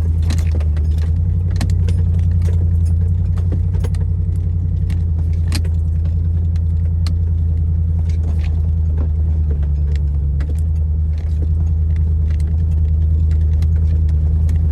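Off-road vehicle on a rough dirt trail, heard from inside the cab: a steady low engine and drivetrain rumble, with irregular clicks and rattles of loose items, like keys jangling, as the vehicle rocks over the ground.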